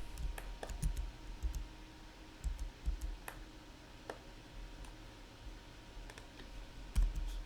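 Irregular computer mouse clicks and key presses, a few a second at most and spaced unevenly, over a faint steady electrical hum.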